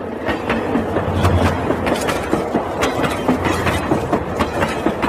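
Toy electric train running on plastic track: a low motor hum under a quick, uneven clatter of wheels over the track.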